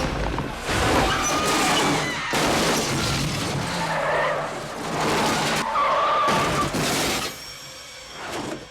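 Car-chase film sound: cars running hard with tyres skidding and squealing, broken by sudden loud hits, changing abruptly from shot to shot and dropping quieter near the end.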